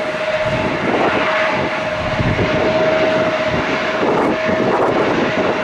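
Airbus A350 jet engines running at takeoff power as the airliner climbs away, a steady rumble with a constant high whine running through it.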